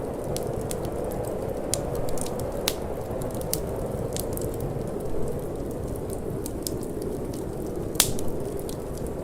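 Wood fire crackling with scattered sharp pops, the loudest about eight seconds in, over a steady low rush of wind.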